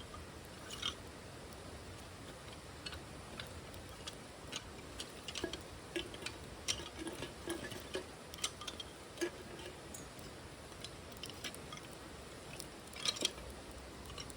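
Wood fire crackling in a titanium wood stove: irregular sharp snaps and pops, busiest in the middle with a loud cluster near the end, over a faint steady hiss.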